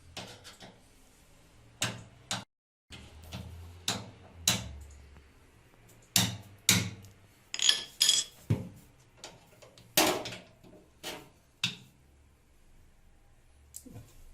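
Irregular knocks and clinks of metal tools and parts during a washing-machine drum bearing repair, about a dozen sharp hits, a few ringing briefly like struck metal.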